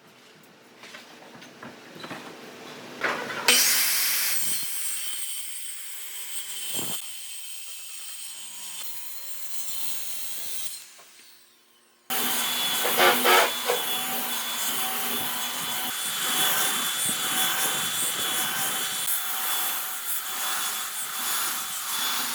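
Woodworking on wood: a loud noisy tool sound starts suddenly and slowly fades. After an abrupt cut, a steady run of rhythmic strokes on wood follows, about two a second.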